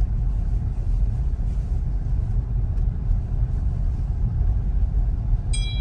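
Steady low rumble of tyres on a snowy road, heard inside the cabin of a Tesla Model Y, an electric car with no engine note. A short high tone sounds near the end.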